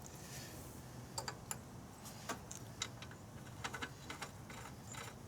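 Light, irregular clicks and ticks of small metal tools and parts being handled, as a spark plug is fitted into a lawn mower engine.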